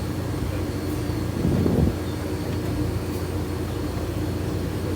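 A steady low engine rumble, with a short louder surge about a second and a half in.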